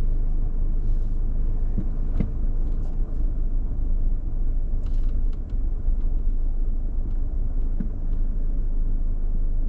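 A car driving slowly: a steady low rumble of engine and tyres, with a few light knocks and clicks scattered through it.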